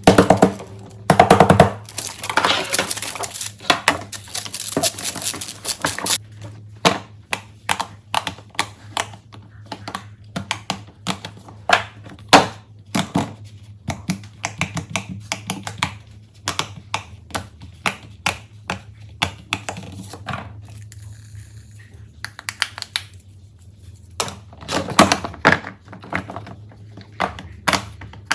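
Fidget toys being handled and popped, mostly silicone pop-its: a stream of sharp clicks and pops, dense and rapid for the first several seconds and again near the end, sparser and spaced out in between.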